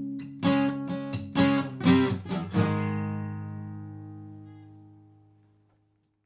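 Acoustic guitar strummed in a few sharp strokes, then a final chord struck about two and a half seconds in that rings out and fades away: the closing chord of the song.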